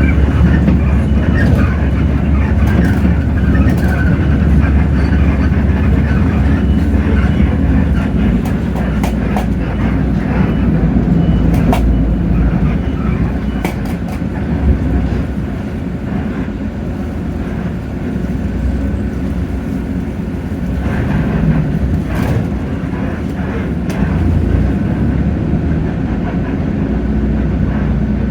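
Hino J08E 7.7-litre inline-six diesel of a city bus running under way, heard from inside the cabin, its low engine note changing about eight seconds in. Sharp rattles and clicks of the bus body come through now and then.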